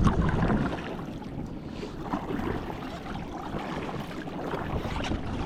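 Water splashing and rushing around a fishing ski as it is paddled at sea, with wind noise on the microphone.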